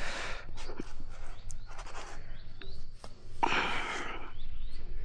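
A person breathing hard in several heavy breaths a second or more apart while climbing, with a few light knocks and scrapes.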